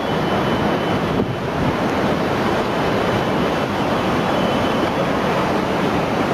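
Loud, steady rushing of surging water, without let-up, with wind buffeting the microphone.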